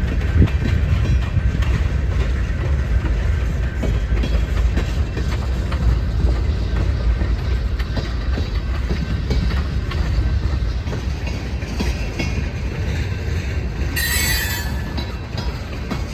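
Freight train cars rolling past, with a steady low rumble and wheels clacking over rail joints. Near the end a brief high-pitched wheel squeal.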